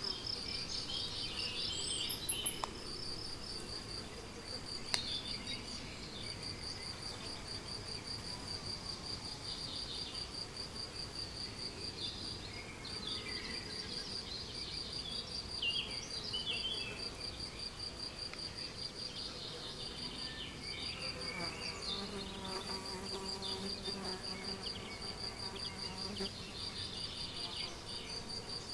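Meadow ambience: a cricket chirping in a steady, fast-pulsed high trill, with birds singing in the background. About two-thirds of the way through, a flying insect buzzes close to the microphone for several seconds.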